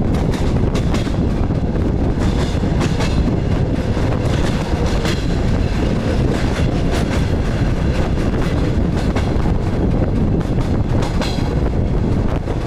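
DR1A diesel railcar running along the line: a steady low rumble, with the wheels clacking over rail joints now and then.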